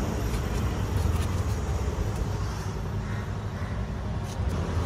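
A low, steady rumble of road vehicles, with a few faint clicks.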